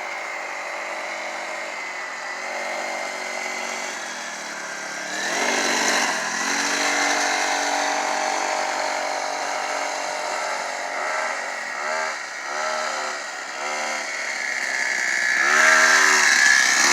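Small dirt bike engine running and revving, its pitch rising and falling with the throttle. There are several quick rev swoops about two-thirds of the way through, and it is loudest near the end.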